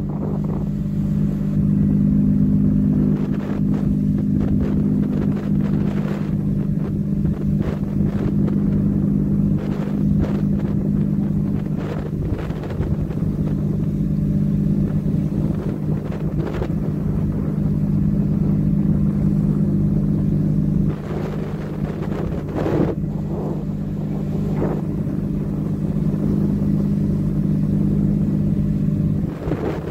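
Ship's engine running steadily with a low, even hum, while wind gusts buffet the microphone.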